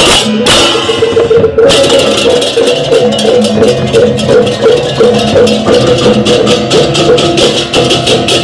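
Balinese gamelan playing: rapid crashing cymbal strokes over steady ringing bronze tones. The cymbals fade out briefly and come back in, faster, under two seconds in.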